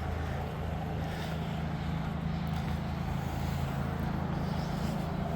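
Steady low engine drone, as of a vehicle idling, with a faint hiss of wind over it.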